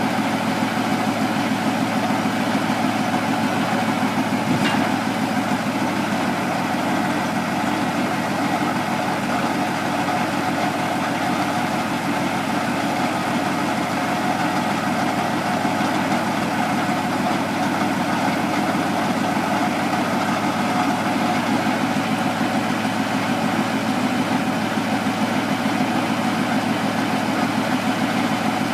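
Truck engine idling steadily, with one short click about five seconds in.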